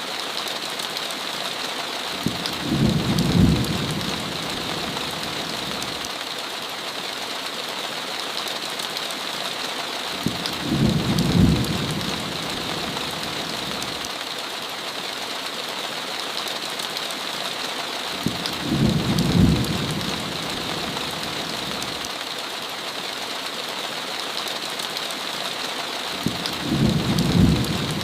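Steady heavy rain hiss against a window, with a short low thunder rumble about every eight seconds, four times in all.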